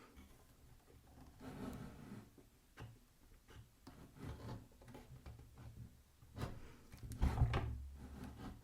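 Scattered knocks, clicks and rubbing of wood and metal being handled at a pillar drill, with the motor off; a louder cluster of knocks comes about seven seconds in.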